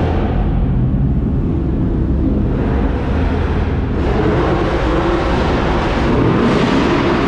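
Car engines and exhausts rumbling as cars drive slowly past, with an engine's pitch rising and falling about halfway through.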